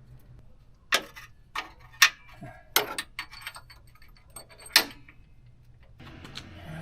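Several sharp clicks and knocks at irregular spacing, the loudest about two seconds in and again near five seconds. A low, steady hiss starts about six seconds in.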